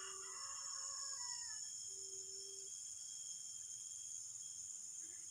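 Steady high-pitched insect drone, with two faint, short, steady-pitched calls about two seconds apart from an unseen animal whose cry sounds like a person crying.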